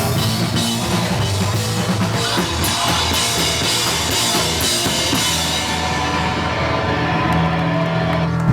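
Punk band playing live with a full drum kit, loud and dense. The cymbals drop away about two-thirds of the way through, leaving a held low note.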